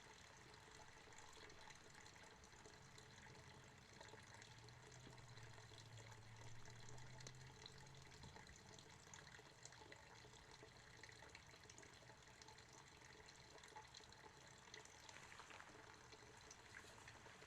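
Faint, steady trickle of running water, close to silence, with a faint low hum a few seconds in that fades out again.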